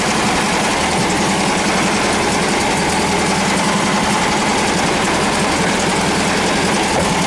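1967 Volkswagen bus's air-cooled flat-four engine idling steadily and skipping a little: it is running short of fuel, with gas gurgling in the carburettor after the bus sat for a year.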